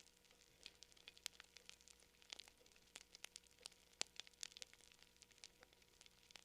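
Campfire crackling: wood burning with quick, irregular pops and snaps, the loudest pop about four seconds in.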